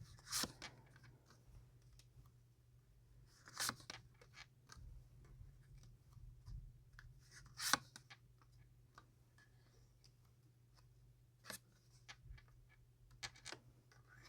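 Faint handling of tarot cards: a few brief swishes and taps as cards are drawn and laid out, about four louder ones spread through, with small ticks between, over a low steady hum.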